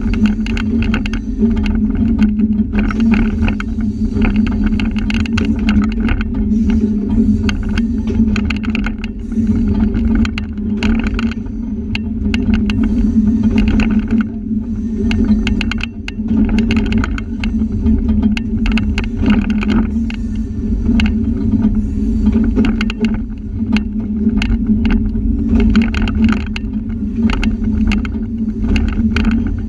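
Train running: the diesel switcher locomotive's steady drone with constant rattling and clicking from the moving cars.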